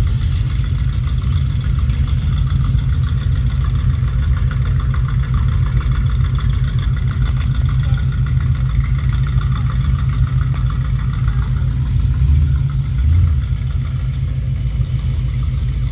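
A car engine running steadily with a deep low rumble, swelling briefly about twelve seconds in.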